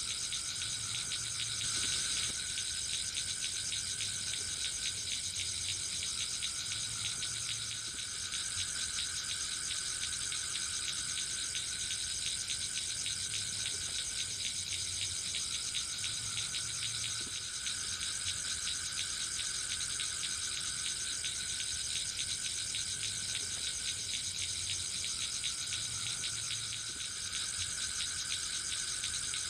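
Chorus of insects, crickets and similar, trilling steadily in the forest: a dense, fast pulsing with a high, shrill band and a lower, wavering tone.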